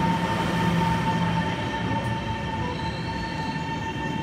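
Taiwan Railways EMU700 electric multiple unit pulling in along the platform and slowing to a stop. A steady high whine sits over the rumble of the wheels, and a lower hum drops away about a second and a half in.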